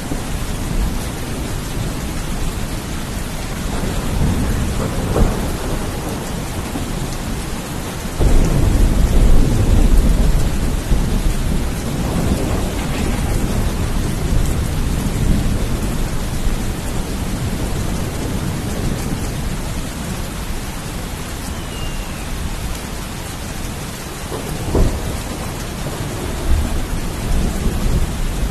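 Steady heavy rain with thunder rumbling; a loud, deep peal starts suddenly about eight seconds in and rolls on for a few seconds, with smaller rumbles near five and twenty-five seconds.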